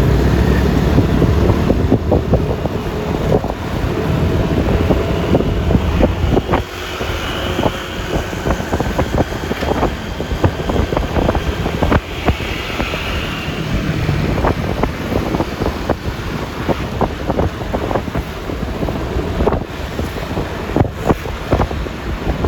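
Riding noise on a Yamaha Lexi LX 155 scooter: wind buffeting the microphone over the engine and road noise, with many short crackles. A heavy rumble eases after about six seconds.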